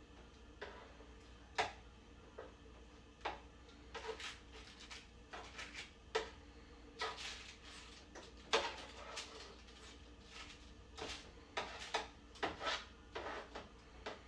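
Irregular light clicks and knocks on a baking tray as half-baked meatballs are turned over, coming closer together in the middle.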